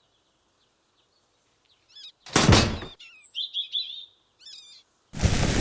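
Small birds chirping in short, quick phrases, with one heavy thunk about two and a half seconds in, and a loud, steady rushing noise that starts suddenly near the end.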